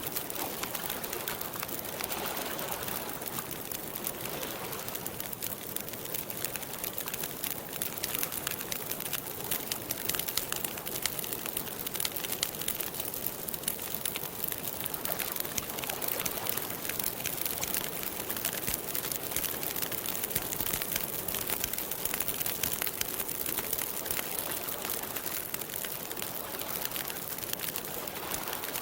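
Wood campfire crackling steadily, a dense run of small pops and snaps over a soft hiss.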